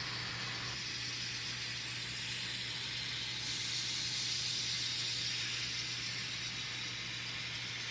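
N scale model train running over the layout track at speed step 20: a steady hissing whir of small wheels and motor that swells a little around the middle, over a steady low hum.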